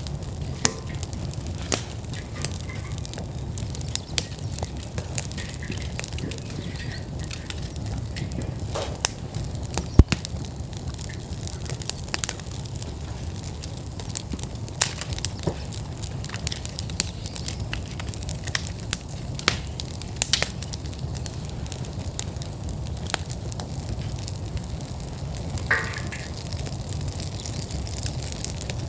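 Wood fire in an outdoor fire pit burning at full flame: a steady low rumble of the flames with frequent sharp crackles and pops, one louder pop about ten seconds in.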